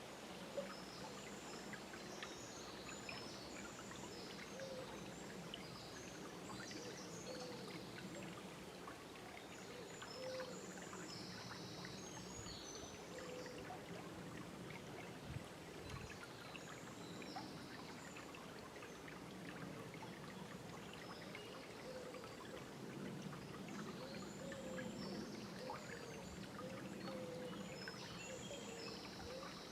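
Forest river flowing steadily, a trickling, babbling water sound full of small splashes. Birds chirp on and off, high above the water.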